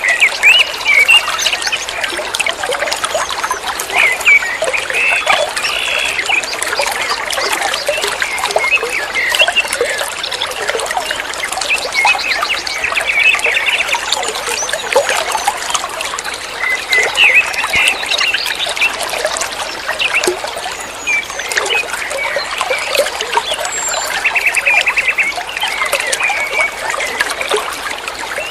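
Flowing water trickling steadily, with small birds chirping and singing over it, including a few rapid trills.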